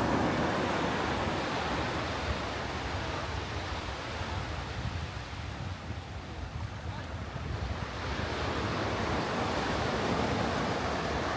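Sea surf washing onto a beach, easing off about halfway through and building again as the next wave comes in, with wind rumbling on the microphone.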